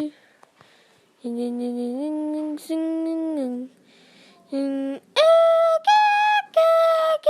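A young voice singing a slow wordless tune in long held notes, after about a second of quiet; the last few notes, near the end, are higher and louder.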